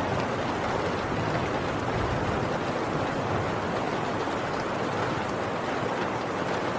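Heavy rain pattering densely and steadily on a tin roof.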